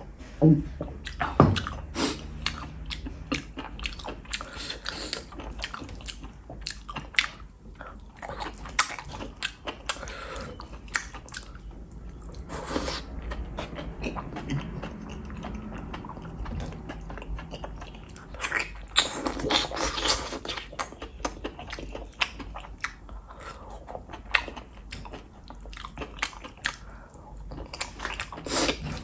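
Close-up chewing and wet mouth sounds of a person eating enoki and oyster mushrooms in sauce: a steady run of short smacks and clicks. There is a longer noisy stretch of a second or two about two-thirds of the way through.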